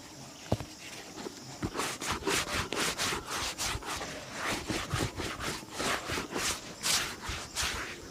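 Quick repeated rubbing strokes on a leather shoe as it is polished, about two to three strokes a second, starting a couple of seconds in. A single sharp click comes just before them.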